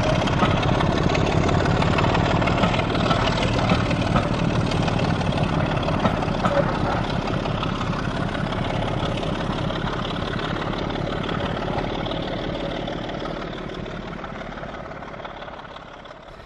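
A heavy engine running with a fast, even low pulse, fading away over the last few seconds.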